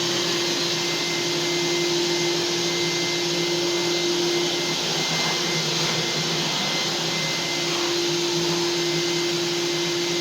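Household vacuum cleaner running steadily, a continuous motor whine and airflow rush with an even hum.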